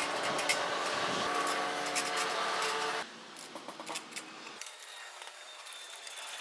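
Electric drill running steadily while driving in screws, then stopping about three seconds in, followed by a few light clicks.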